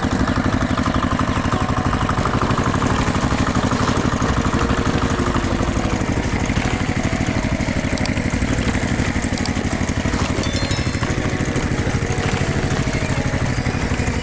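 Tractor engine running steadily with a fast, even chug.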